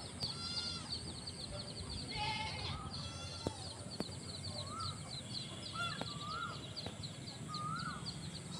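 Birds in a farmyard: dense, rapid high chirping from small birds, with repeated short rising-and-falling calls and a brief harsher call about two seconds in.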